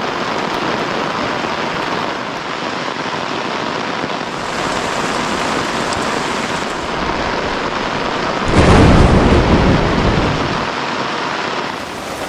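Heavy rain falling steadily, with a loud rumble of thunder breaking in about two thirds of the way through and fading away.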